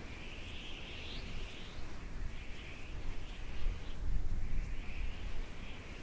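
Outdoor bird song in repeated phrases a second or two long, with short pauses between them, over a low wind rumble on the microphone that grows louder about four seconds in.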